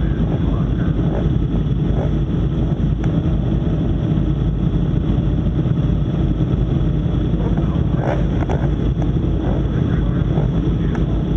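Yamaha R1 superbike's engine running steadily, with wind noise on the microphone.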